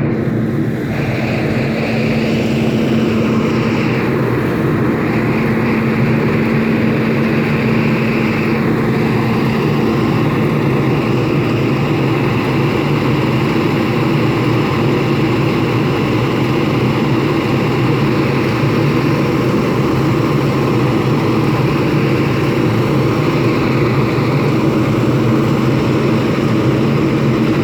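School bus engine idling, a loud, steady hum that holds unchanged throughout.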